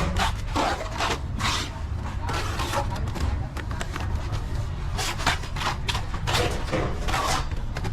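Plastering trowel scraping mortar across a wall in short, irregular strokes over a steady low rumble.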